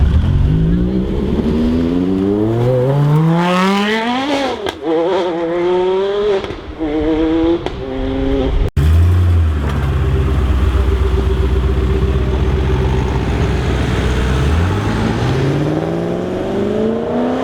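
A sports car engine accelerating hard, its pitch climbing steadily and then stepping through quick gear changes. After an abrupt cut, an engine runs at a steady low note before revving up again near the end.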